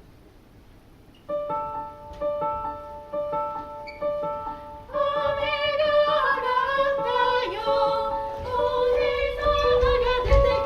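A school wind band playing live. After about a second of quiet, a short phrase of separate notes repeats several times. About five seconds in, a fuller ensemble joins with wavering sustained notes, and the music grows louder.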